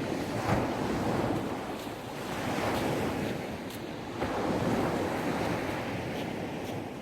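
Gentle sea waves breaking and washing up on the beach, the surf swelling and ebbing every second or two.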